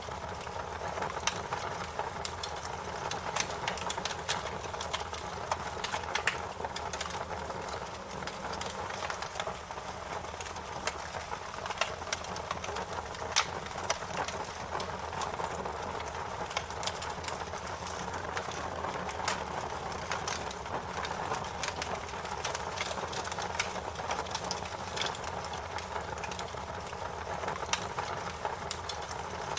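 Wood fire crackling steadily: a constant soft rush of burning, broken by many irregular sharp pops and snaps.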